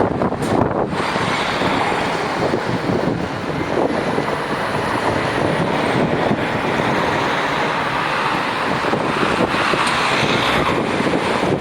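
Wind buffeting the microphone over a steady noise of passing road traffic.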